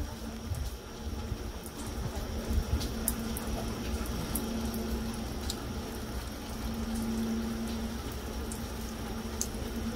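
Steady light rain falling on wet pavement and tree leaves, with scattered sharp ticks of individual drops. A faint steady low hum sits underneath, growing a little louder at times.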